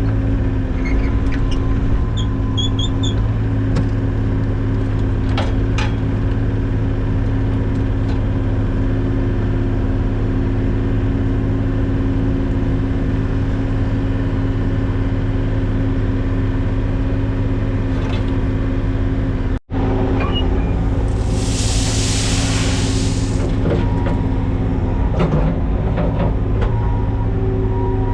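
Engine of a piece of construction equipment running steadily at an even speed. It cuts out for an instant about two-thirds through, and a short hiss of about two seconds follows.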